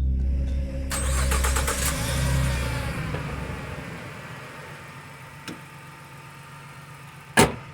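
Ford Transit van's engine being cranked by the starter, a rapid run of strokes, and catching after a jump-start of its flat battery. A single sharp click near the end.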